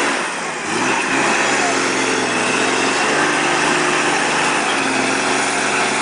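A vehicle engine running at a steady pitch, with a constant hiss of road or wind noise over it. The engine note falls away briefly about half a second in, then settles again.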